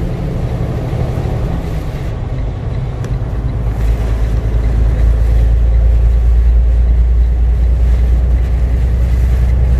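Freightliner semi truck's diesel engine running, heard from inside the cab as a deep, steady drone that grows louder about four to five seconds in.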